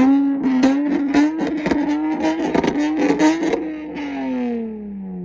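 Car engine revved and held at high revs with a rapid crackle, then the revs fall away smoothly over the last second and a half.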